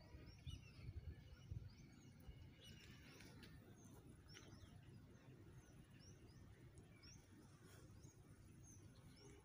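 Faint bird chirps: a short, high note repeated about twice a second, over a low rumble.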